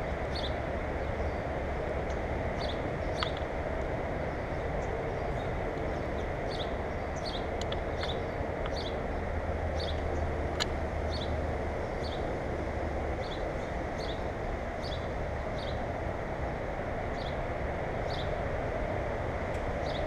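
A small bird chirping short, high notes over and over, roughly one every half second to second, over a steady low rumble, with a couple of sharp taps.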